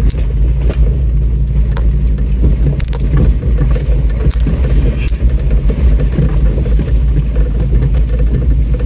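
Off-road vehicle crawling over a rough trail: a steady low engine and drivetrain rumble, with scattered knocks and rattles from the body and suspension.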